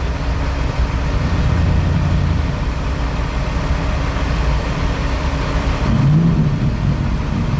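Offshore racing powerboat engines running at speed, a steady drone whose pitch rises briefly about six seconds in.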